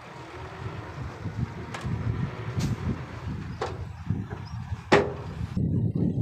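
Heavy diesel earthmoving machinery running with a deep engine rumble, broken by four sharp knocks, the loudest about five seconds in; the engine grows louder near the end.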